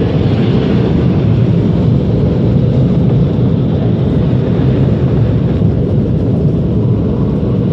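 Automatic car wash air dryer blowers running, a loud steady rush heard from inside the car, easing off slightly near the end.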